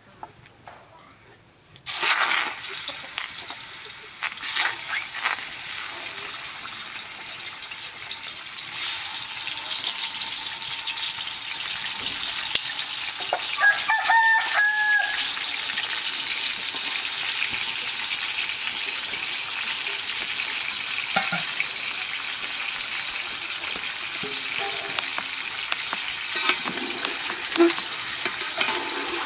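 Food sizzling in hot oil in a cooking pot, starting suddenly about two seconds in and then going on steadily. A chicken calls briefly about halfway through.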